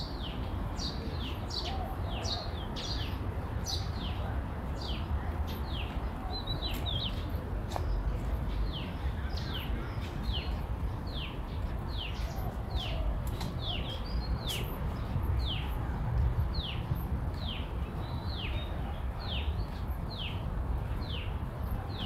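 A bird calling over and over: a short note falling in pitch, repeated about twice a second, over a steady low rumble.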